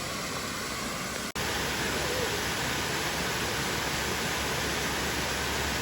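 Steady rushing outdoor noise with no distinct events, cut off abruptly about a second in and resuming slightly louder after an edit.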